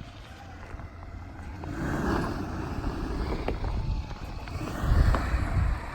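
Off-road truck engine working over a trail obstacle, growing louder about two seconds in and surging near the end, with a couple of sharp knocks.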